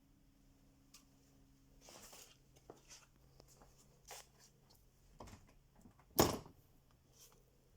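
Very old GEC fridge freezer running with a low steady hum; the highest part of the hum drops away about two seconds in. Scattered light clicks and rattles sound over it, with one sharp knock about six seconds in.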